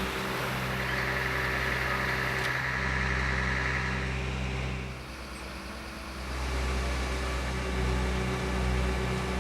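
A steady machine or engine hum with a high whine over the first few seconds. The sound drops briefly about halfway through, then returns.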